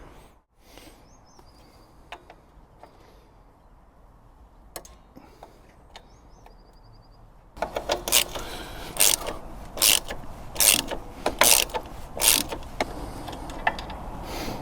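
Hand tools working the motorcycle side stand's pivot bolt loose. A few faint clicks come first, then from about halfway in a steady run of sharp strokes, roughly one every 0.8 s.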